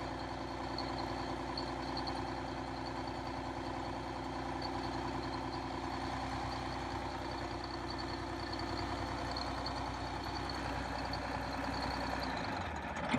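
Detroit Diesel 6V92 two-stroke V6 diesel in an MC9 bus running steadily after a cold start, with a thin high whine over it. More fuel has brought all the cylinders in, so the engine is running evenly.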